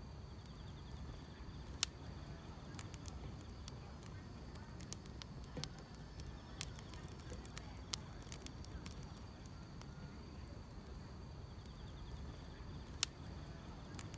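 Wood fire crackling: a low rumble with sharp pops scattered through, the loudest about two seconds in and again near the end, over a steady high trilling of grass insects.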